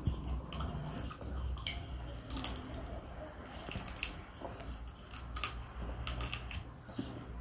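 A toddler chewing grilled chicken wing, with wet mouth smacks and small clicks at irregular intervals.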